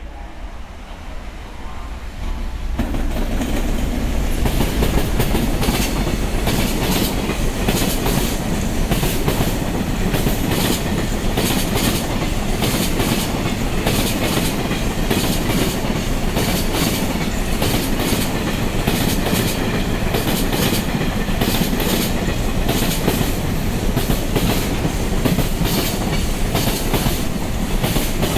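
Long freight train passing through a station: steady rumble of wheels on rail with repeated clickety-clack over the rail joints. It swells to full loudness about two and a half seconds in and stays loud as the wagons roll by.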